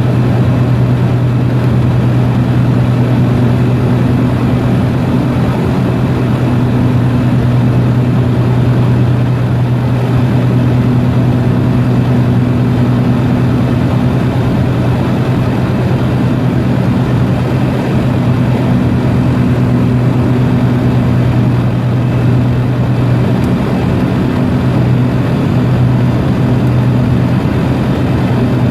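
Light propeller aircraft's engine and propeller running in a steady low drone with a constant hum, unchanging in pitch.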